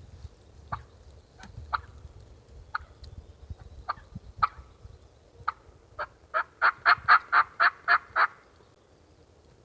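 Wild turkey hen-type calling, close and loud: a few single sharp clucks spread over the first five seconds, then a quick run of about ten yelps at roughly four a second that stops a little over a second before the end.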